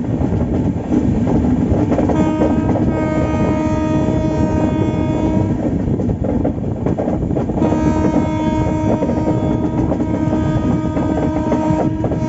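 Express passenger train running at speed, a loud steady rumble with rail noise. A train horn sounds two long steady blasts, the first about two seconds in and lasting some three seconds, the second from about seven and a half seconds in until a sudden cut near the end.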